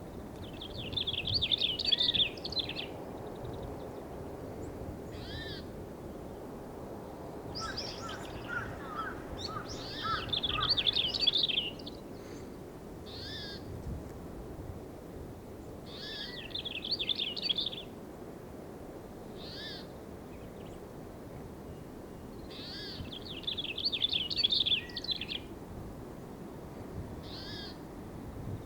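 Wild birds calling: four bursts of rapid, high chattering about two seconds each, with single short call notes between them, over a steady low background noise.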